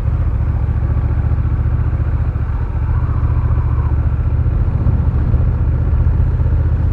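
Honda Rebel 1100's parallel-twin engine running steadily at low, even speed, a continuous low, even hum.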